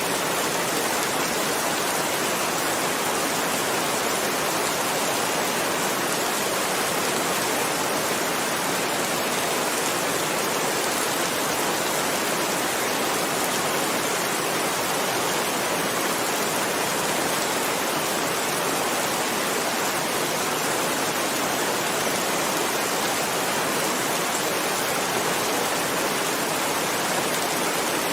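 Heavy rain falling steadily, an even hiss without any separate drops, thunder or other events standing out.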